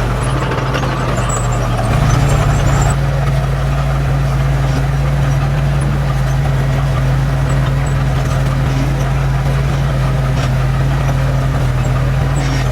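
Heavy diesel earthmoving machine engine running steadily with a low drone, getting slightly louder for about a second, around two seconds in.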